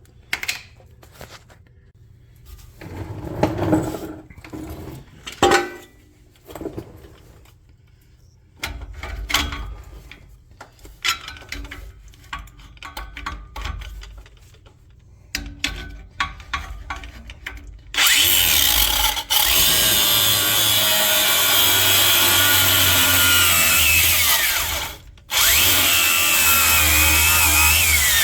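Scattered clanks and knocks of tools on metal, then a power tool running loudly in two long runs, the first about seven seconds and the second about three, with a short break between.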